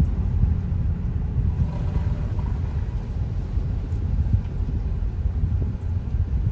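Steady low rumble of a vehicle driving, heard from on board.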